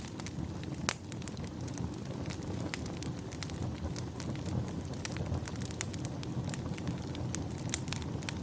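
Wood fire burning in a fireplace: a low steady rumble of flames with frequent sharp, irregular crackles and pops, one loud pop about a second in.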